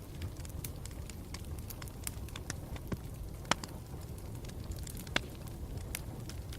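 Campfire burning with a low steady rumble and irregular crackles and pops, two sharper pops standing out about halfway through and near the end.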